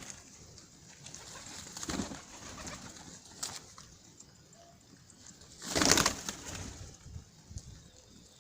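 Pigeons cooing, with a short rustling burst about two seconds in and a louder one around six seconds in.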